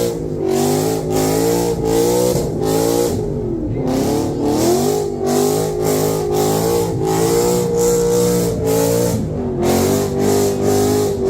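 Car engine revving hard and held at high revs, its pitch wavering up and down, with a brief drop and climb back about four seconds in.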